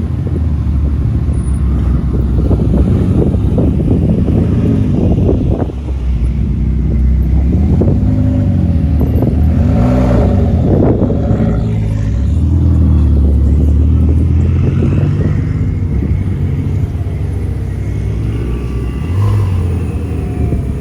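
Loud sports car engine running with a low rumble, revved several times in quick succession about eight to eleven seconds in, the pitch rising and falling with each blip.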